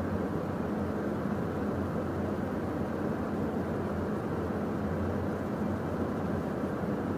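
Steady cockpit noise of a Beechcraft Premier 1A twin-turbofan business jet in the climb: an even, muffled rush of engine and airflow noise with a low steady hum, unchanging throughout.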